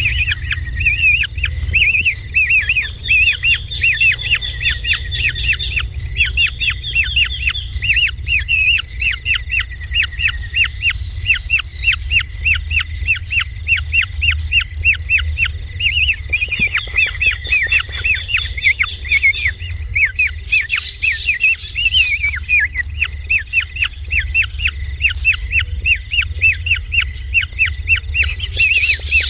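Kingfisher calling in a fast, unbroken series of short, sharp chirps, several a second, over a steady high insect drone and a low rumble.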